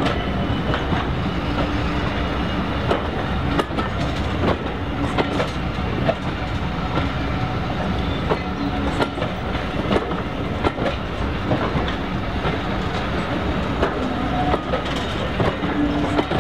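Diesel train running along the line: a steady rumble with frequent irregular clicks and rattles from the wheels on the track.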